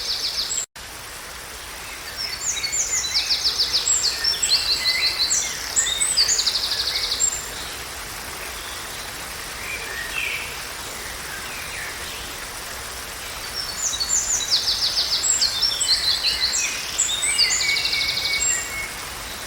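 A songbird sings two long, varied phrases of rapid high trills, about ten seconds apart, over a steady hiss of forest ambience.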